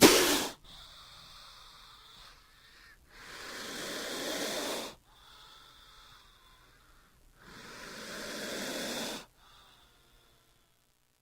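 King cobra hissing: a sharp, loud burst at the start, then two long breathy hisses about four seconds apart, each swelling and cutting off suddenly.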